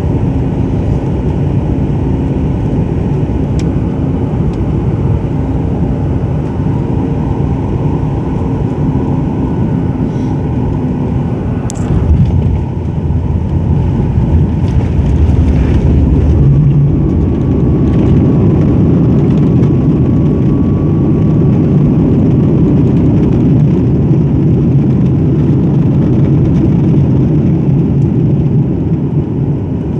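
Cabin noise of a Boeing 737 MAX 9 with CFM LEAP-1B engines on landing: a steady loud rumble of engines and airflow. About twelve seconds in there is a sharp knock, then a heavier rumble, fitting touchdown on the runway. From about sixteen seconds in the rumble grows louder and stays up, as with reverse thrust and braking on the rollout.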